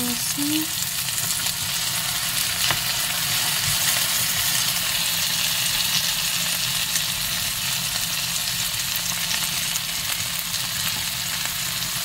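Tortang talong, a flattened eggplant coated in beaten egg, frying in oil in a pan: a steady sizzle with fine crackles.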